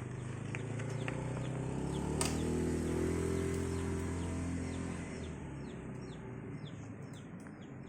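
A motor vehicle's engine running nearby, a steady hum that grows louder and then fades away about five seconds in. Short quick bird chirps repeat faintly in the second half.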